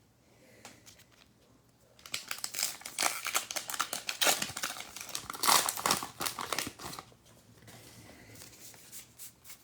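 A plastic trading card pack wrapper being torn open and crinkled, with a dense crackling for about five seconds that then settles into quieter rustling.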